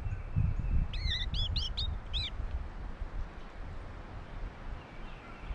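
A bird chirping: a quick run of about five short, arched chirps about a second in, over a low rumble that fades toward the end.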